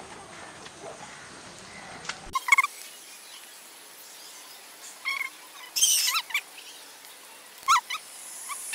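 Songbirds giving short chirping calls, a couple about two seconds in, a cluster around five to six seconds and another near the end, over a faint steady background.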